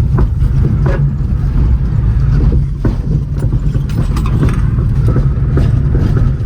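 Small 1990s Toyota's 1.5-litre four-cylinder engine running under load, with tyre and road rumble while driving a mountain road, heard from inside the car, with occasional knocks and rattles.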